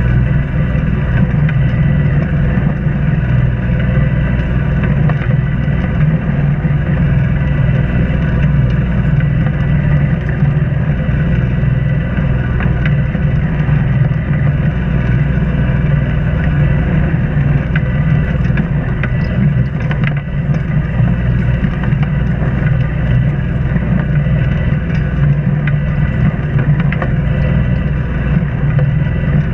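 A sailboat's inboard auxiliary engine running steadily while the boat motors along, a constant low drone with no change in speed.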